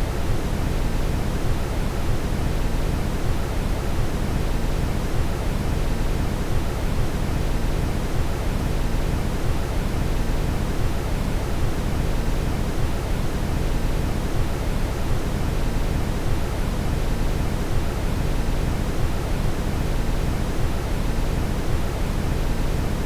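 Steady brown noise: a deep, even hiss, strongest in the bass and unchanging throughout.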